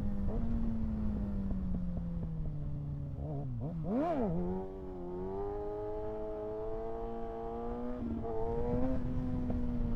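A Kawasaki ZX-6R 636's inline-four engine running under way, its pitch slowly sagging. About four seconds in it revs sharply up and straight back down, then settles into a steady note that climbs a little near the end.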